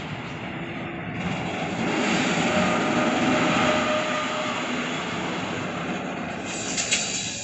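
Freight train of pocket wagons loaded with semi-trailers rolling past: a steady rumble of wheels on rail that swells a little in the middle, with a sharp click near the end.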